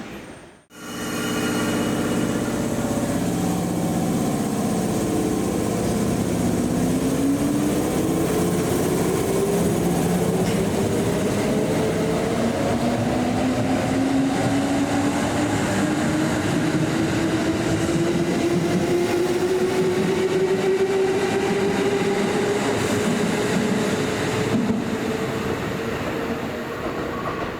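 Kintetsu electric train accelerating, its traction motor whine rising slowly in pitch over a steady running rumble. This starts just after a brief dropout about half a second in.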